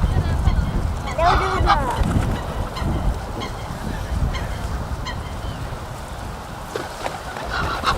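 Goose honking: one call about a second in and a shorter one near the end, over a low rumble of wind on the microphone.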